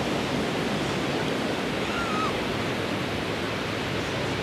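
Ocean surf washing steadily on the shore, an even rushing noise with no break.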